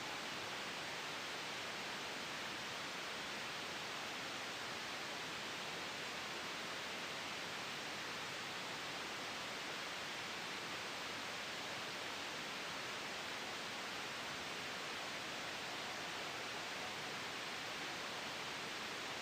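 Steady white noise made for sleep masking: a smooth, even hiss, brighter than it is deep, with no change in level.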